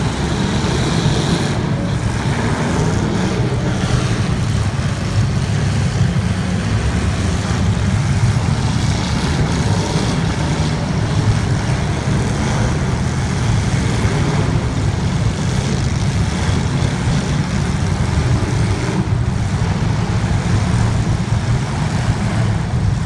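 Racing car engines running steadily, a continuous dense engine noise that does not let up.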